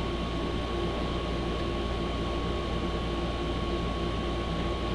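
A steady hum and hiss with a faint, constant high whine, unchanging throughout, like a fan or air-conditioning unit running.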